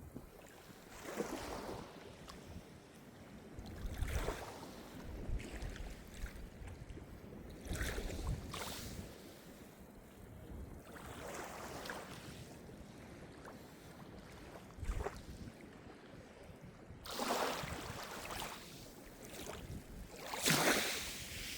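Small sea waves breaking and washing on the shore, rising and falling in surges every few seconds, the two strongest near the end.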